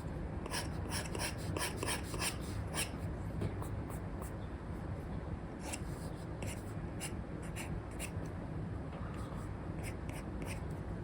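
Stylus strokes of an Apple Pencil with a paper-feel nib on a paper-like screen protector over an iPad: short scratchy strokes, a quick run of them in the first few seconds, then sparser strokes later. A steady low hum runs underneath.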